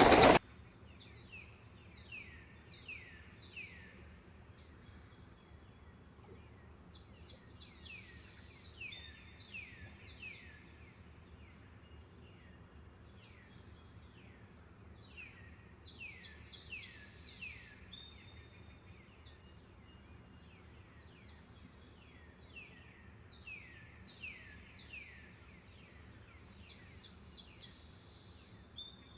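Forest birdsong: a small bird gives runs of short, quick chirps that each fall in pitch, over a steady high-pitched insect trill. A brief loud rush of sound cuts off abruptly at the very start.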